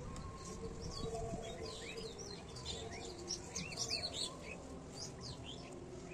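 Small birds chirping, a quick run of high, sliding chirps through the middle, over a steady low background hum.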